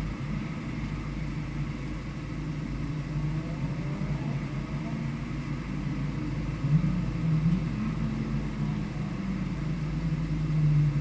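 A vehicle's engine being driven hard around a circuit, its note rising and falling with the throttle, with a brief louder surge about seven seconds in.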